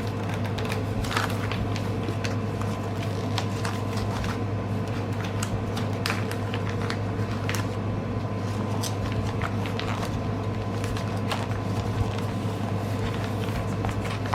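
Scattered light clicks and crinkles from a cross stitch kit's packaging being handled, over a steady low electrical hum.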